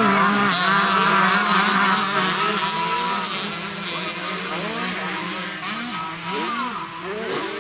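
Several 125cc motocross bikes racing, their engines loudest in the first few seconds and then fading, with revs rising and falling as the riders shift and throttle through the track.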